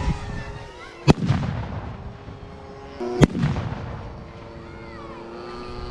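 Two loud pyrotechnic charge blasts, about two seconds apart, each ringing out in a long echoing tail, set off in a staged battle reenactment. Under them runs a steady drone of model airplane engines.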